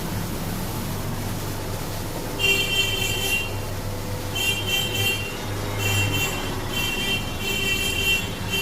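Maruti Alto K10's three-cylinder petrol engine idling with a steady hum while it is decarbonized. From about two seconds in, a high-pitched tooting tone sounds in irregular bursts over the engine.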